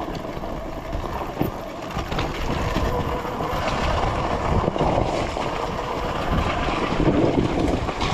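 Surron Ultra Bee electric dirt bike being ridden on a dirt trail: wind buffeting the microphone over the rattle and knocks of the bike and tyres on rough ground, with a faint wavering motor whine.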